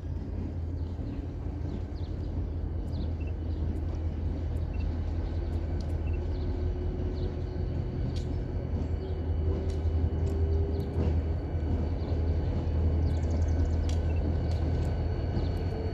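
Diesel locomotive of a ballast train running, a steady deep rumble with a faint thin tone over it and scattered light clicks.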